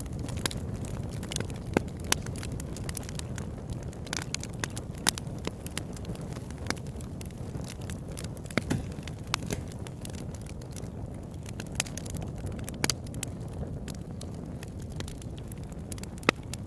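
Campfire burning, with sharp crackles and pops at irregular intervals over a low, steady rumble.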